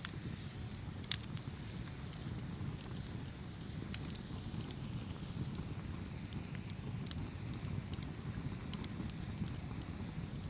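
Campfire burning: a steady low rumble of flames with scattered sharp crackles and pops, the loudest pop about a second in.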